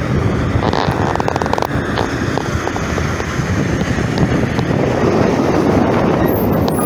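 International garbage truck's diesel engine running steadily, with wind buffeting the microphone.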